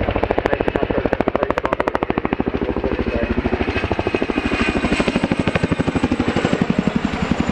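Boeing Chinook tandem-rotor helicopter flying a display, its rotor blades chopping in a fast, steady rhythm. A high turbine whine sits over it and slides slightly lower in the second half.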